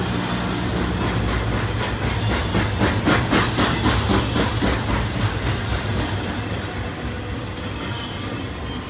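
BNSF intermodal freight train, trailers on flatcars, rolling past with a steady rumble. Around the middle a fast run of wheel clicks over the rails is loudest.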